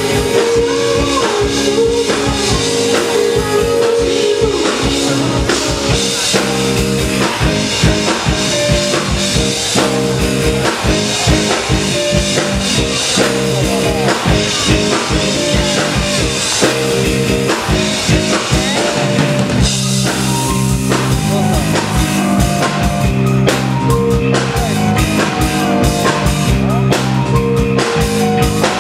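Live rock band playing, with a busy drum kit over bass and keyboard chords. The drumming gets heavier about two-thirds of the way through.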